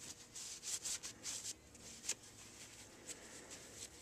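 Faint rubbing strokes as a dirty hair-clipper blade is cleaned of packed hair. There are several quick strokes in the first second and a half and one more about two seconds in.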